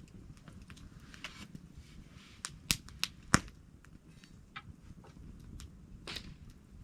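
Wood campfire crackling over a low rumble of flame, with scattered small ticks and two loud sharp pops a little over half a second apart near the middle.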